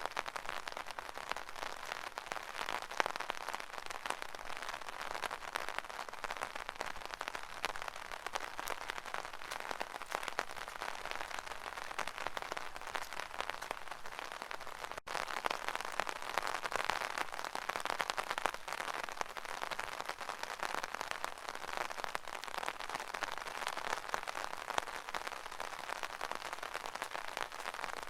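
Rain drumming on an umbrella canopy: a dense, steady patter of many small drops, with a momentary break about halfway through.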